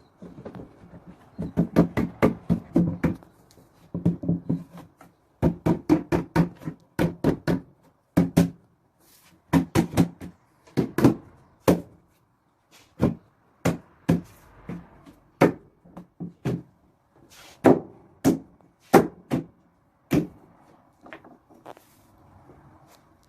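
Knocks on solid wood as the pieces of a nail-free slab-wood TV stand are worked apart: dozens of sharp knocks in quick runs of several a second, with gaps between the runs.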